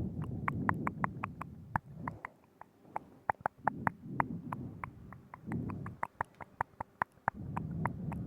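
Close-up ASMR mouth sounds into a binaural microphone: a quick run of wet tongue and lip clicks, several a second, over stretches of low rumbling that come and go every second or two.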